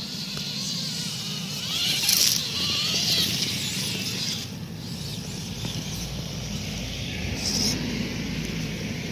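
Radio-controlled trail truck's electric motor and gears running as it crawls over rough ground, a steady hum with a hiss on top that swells for a couple of seconds.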